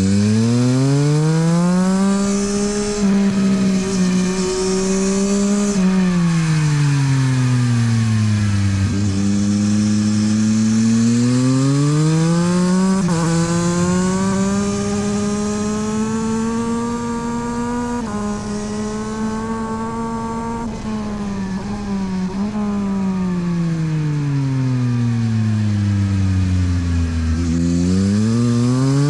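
Yamaha MT-09 SP's inline-three engine through a LeoVince aftermarket exhaust, ridden hard on track. The revs climb and fall repeatedly as the bike accelerates and slows, with a brief dip at an upshift about halfway through and a long fall in revs near the end before it pulls again.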